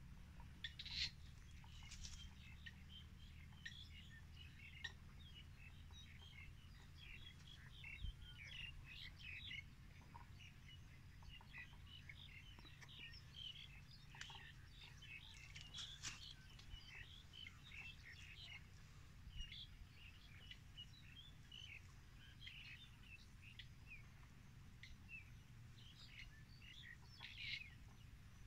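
Small birds chirping faintly, many short high calls, over a low steady hum.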